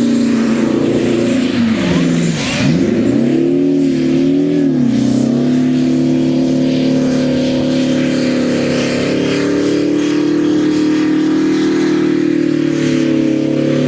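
Bandag Bullet supertruck's engine held at high revs during a burnout, the revs dropping sharply about two and a half seconds in and climbing straight back, wavering for a second or so, then held steady.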